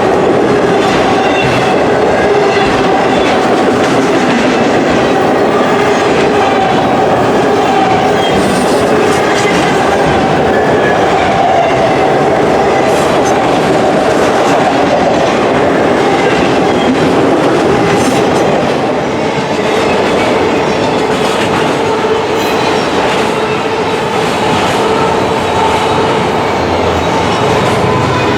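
Freight train cars rolling past on the rails: a steady, loud noise of wheels on track, with two faint steady tones running underneath.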